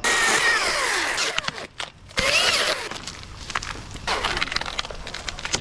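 Chainsaw cutting into fir, revved in bursts: the engine note rises at full throttle and falls away as the throttle is let off, about three times, loudest in the first second.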